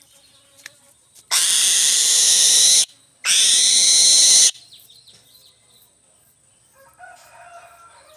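Eagle giving two long, harsh screams, each about a second and a half, with a short break between them.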